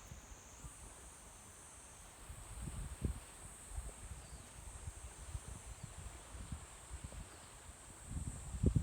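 Insects chirring in a steady high-pitched drone that shifts slightly higher just under a second in, over uneven low rumbles of wind on the microphone.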